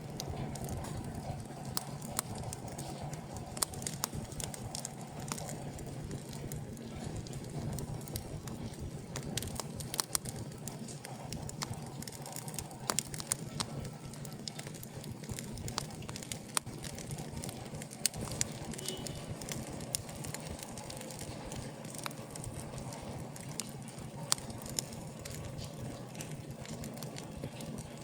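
Wood fire burning in an open fireplace: a steady low rush with frequent, irregular sharp crackles and pops.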